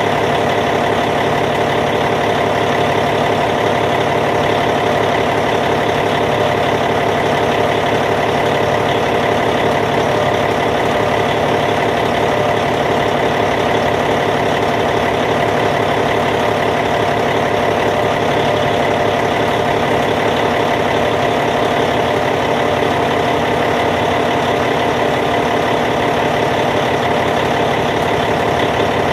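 Caterpillar C15 diesel engine of a D8T bulldozer idling, running steadily with no change in speed.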